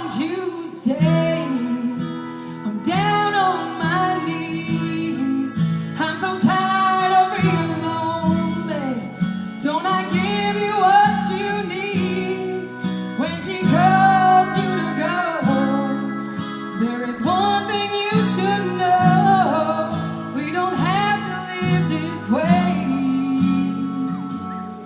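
A woman singing a song, accompanied by strummed acoustic guitar.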